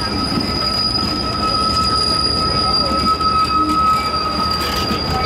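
Alaska Railroad passenger cars rolling past, their running gear giving a steady high-pitched metallic squeal over the rumble of the wheels on the rails.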